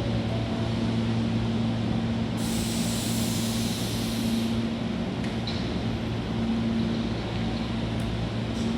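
Hankyu 1000 series electric train standing with a steady electrical hum, then a loud hiss of released compressed air lasting about two seconds, starting about two and a half seconds in, followed by a few light clicks.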